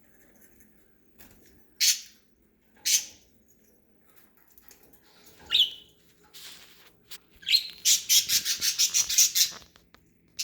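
Pet budgerigars chirping: two sharp calls about two and three seconds in, a short gliding chirp in the middle, then a quick run of about eight chirps a second for two seconds near the end.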